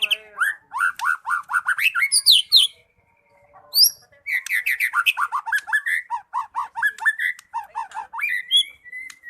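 White-rumped shama singing vigorously: fast runs of repeated whistled notes, with a short pause about three seconds in before the next run.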